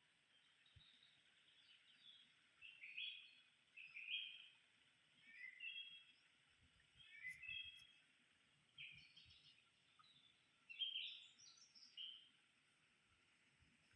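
Faint bird song: a series of about seven short chirping phrases, each a second or so apart, over a steady high hiss.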